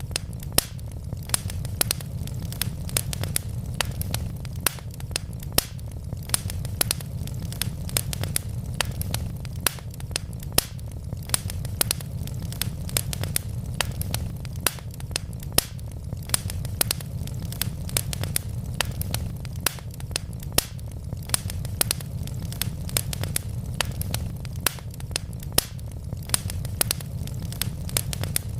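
Wood fire crackling steadily: many sharp pops and snaps, several a second, over a low steady rumble of the burning logs.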